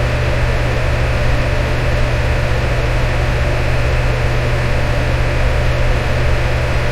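Electric fan running steadily: an even whooshing rush of moving air over a low motor hum.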